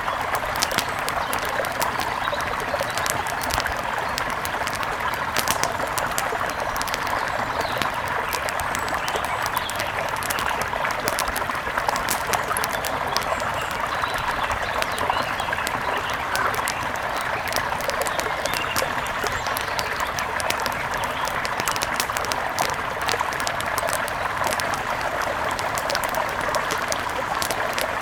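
Steady rush of a mountain river, with frequent sharp pops and crackles of an outdoor wood fire scattered through it.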